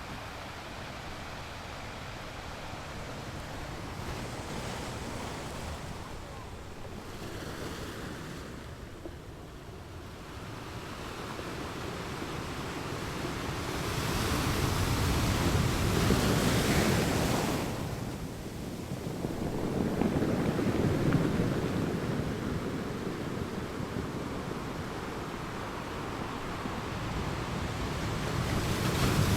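Ocean waves breaking and washing up a beach, swelling loudest about halfway through and again a few seconds later, with another wave building near the end.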